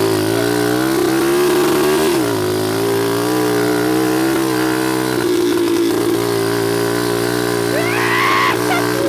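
Small dirt bike's engine running under throttle while being ridden. Its pitch rises at the start, dips briefly about two seconds in, then holds fairly steady.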